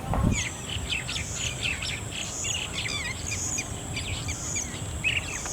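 A wild bird calling: a quick run of short, sharp chirps, several a second, over a steady thin high-pitched tone.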